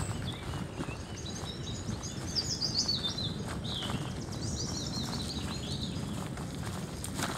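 Birds singing, a quick series of high chirps and trills for the first few seconds, over the steady low rumble of bicycle tyres rolling downhill on a paved lane and wind on the microphone. A few clicks near the end.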